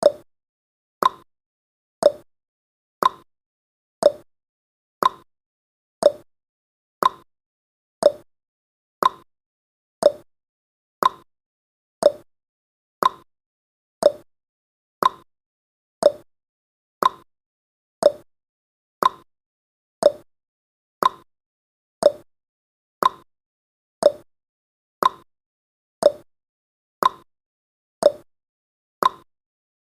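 Countdown timer's ticking sound effect: one short, sharp tick each second, keeping a steady beat.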